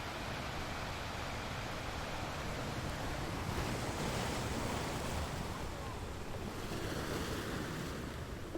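Sea waves breaking and washing against rocks, a continuous rush of surf that swells about four seconds in and then eases, with some wind on the microphone.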